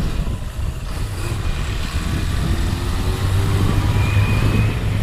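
Motorcycle engine running under way on a winding road, with wind noise over the microphone; its pitch climbs a little past the middle as the bike accelerates.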